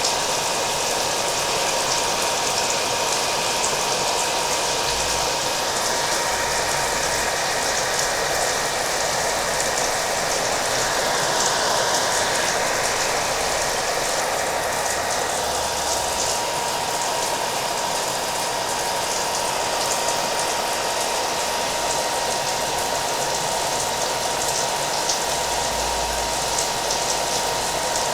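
Hair dryer blowing steadily, its motor giving a constant high whine over the rush of air, mixed with rain pattering down.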